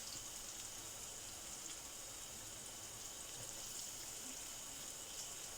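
Flour-coated chicken strips frying in a pan of oil: a steady, faint sizzle.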